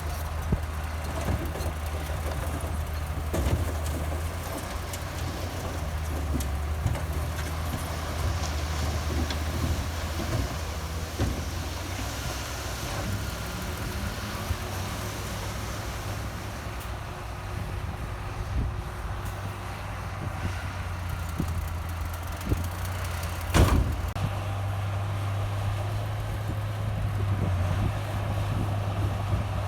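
Komatsu bulldozer's diesel engine running, its speed rising and falling several times under varying load, with scattered clanks and one loud knock about 24 seconds in.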